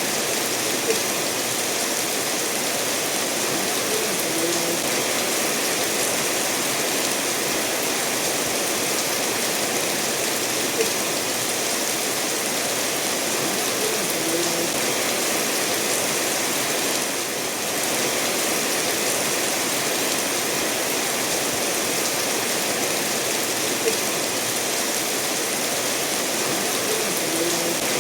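Steady rainfall mixed with a stream flowing over stones, an even unbroken rush of water, with a few brief sharper taps of drops standing out.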